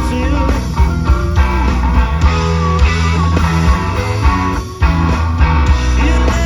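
Live rock band playing an instrumental stretch, electric guitar to the fore over a steady beat, with a brief dip in the sound about five seconds in.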